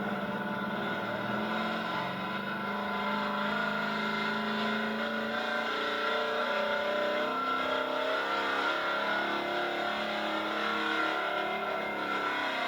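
Gasoline engine of an altered gas pulling truck running hard at high revs, its pitch wavering up and down.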